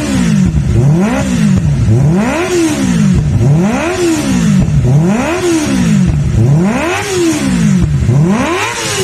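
Kawasaki ZX-25R's 250 cc inline-four revved again and again through a full-system racing exhaust, its pitch climbing and dropping back about seven times in a steady rhythm.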